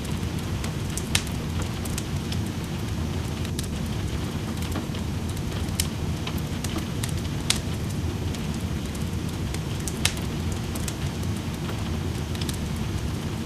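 Wood fire crackling in a fireplace, with sharp pops every second or two, over a steady low rushing hiss of rain.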